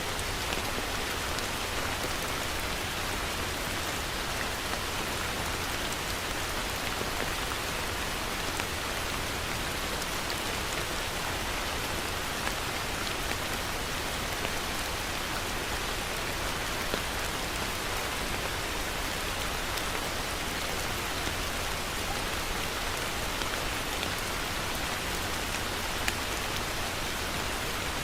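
Heavy rain falling steadily on a surface, a dense even hiss with scattered louder drops.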